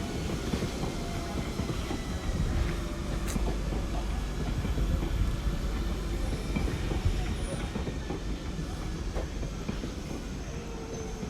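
Train moving through the station: a steady rumble of wheels on the rails with a few faint clicks.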